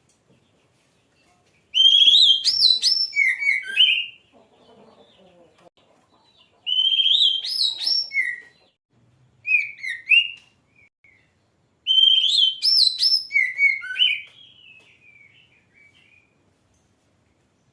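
Oriental magpie-robin (kacer) singing: four loud phrases of quick, sweeping whistled notes and trills, with short pauses between them.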